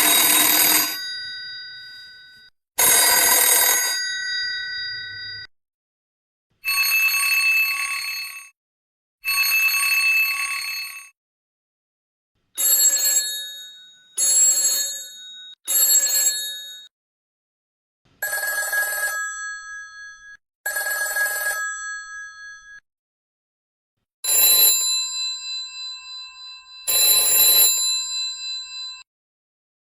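A succession of telephone rings of several different kinds, each kind sounded two or three times with short silences between rings. The first two rings fade away as they sound; the later ones hold steadier before stopping.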